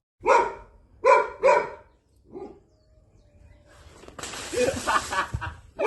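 A dog barking: three short barks in the first second and a half, then more barks over a hissing noise in the last two seconds.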